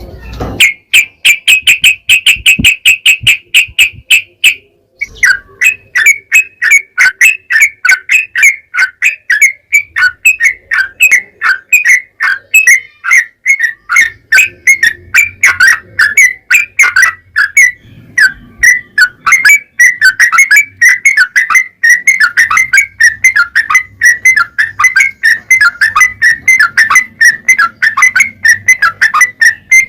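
Yellow-vented bulbul (trucukan) singing a long, rapid song: a fast trill of repeated notes for the first few seconds, a brief pause, then an unbroken run of quick notes that carries on to the end.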